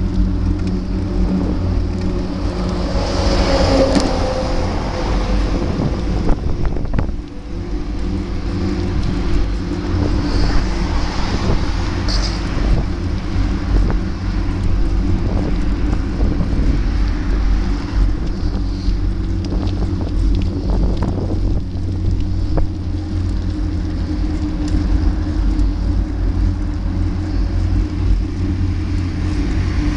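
Motorcycle engine running steadily at cruising speed, with wind noise on the microphone; the sound dips briefly about seven seconds in.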